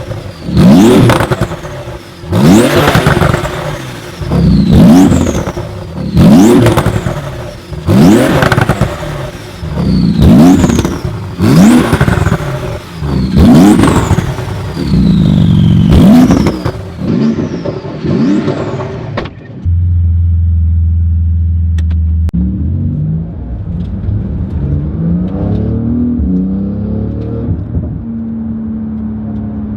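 Porsche 911 GT2 RS twin-turbo flat-six being revved through a valved exhaust with Soul Performance high-flow catalytic converters. It gives about a dozen quick throttle blips, each rising and falling in pitch with a falling whistle after it. About two-thirds in it settles suddenly to a steady, lower idle whose pitch wanders slightly.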